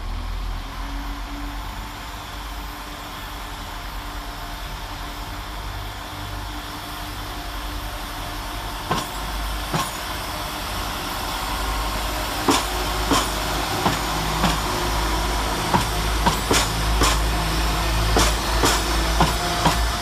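Class 172 Turbostar diesel multiple units pulling away under power. Their engine rumble grows louder, and from about halfway through the wheels click over rail joints and pointwork, more and more often as the train gathers speed.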